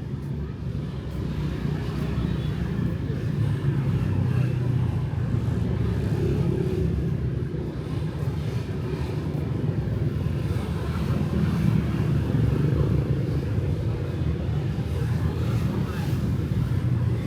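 Street traffic of motorbikes and cars: a continuous engine and tyre rumble that swells a little as vehicles pass.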